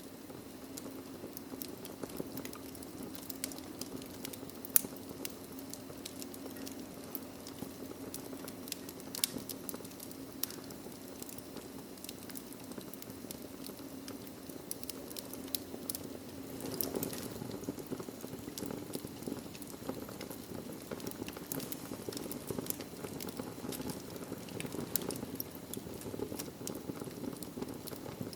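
Wood fire burning in a fireplace: a steady low rush of flame with frequent sharp crackles and pops, one louder pop about five seconds in.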